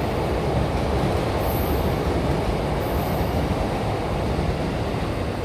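Steady low rumbling noise, with faint high-pitched squeals about a second and a half and three seconds in.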